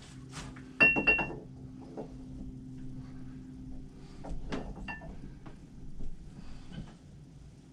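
Metal clinking: a sharp knock with a short bright ring about a second in, and a softer ringing knock near five seconds.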